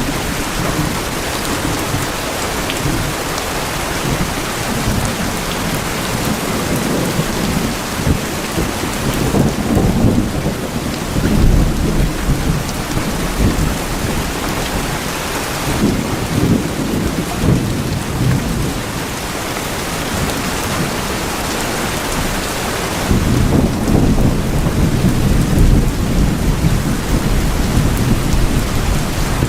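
Steady rain falling on tin roofs, with low rumbles of thunder swelling and fading, strongest about ten seconds in and again for the last several seconds.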